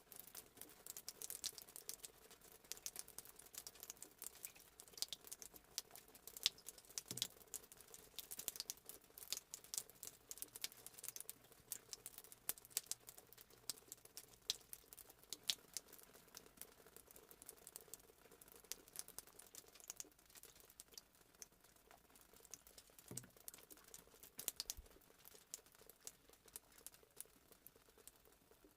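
Rain pattering: a dense, irregular run of light ticks from falling drops.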